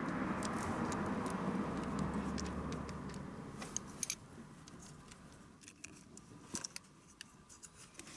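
A rustling noise that fades over the first few seconds, then scattered light metallic clicks and clinks, as of tools or small parts being handled.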